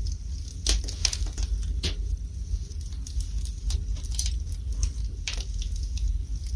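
Wood fire burning in a fireplace: a steady low rumble of the flames with irregular sharp crackles and pops from the burning logs, a handful of them in a few seconds.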